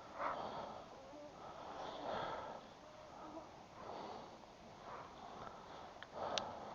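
A person breathing close to the microphone, one breath about every two seconds, with a short sharp click near the end.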